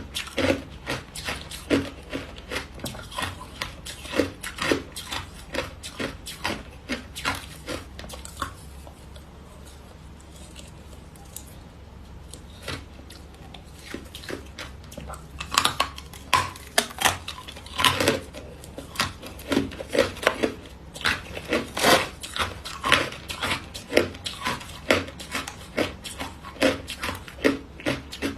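Hard ice being bitten and chewed, a dense run of sharp crunches and cracks, with a quieter lull of a few seconds about a third of the way in before the crunching picks up again.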